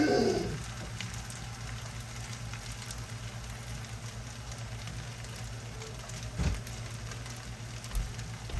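Shrimp fried rice sizzling faintly and steadily in a pan on low heat, under a constant low hum. Two short knocks come a little past halfway and near the end.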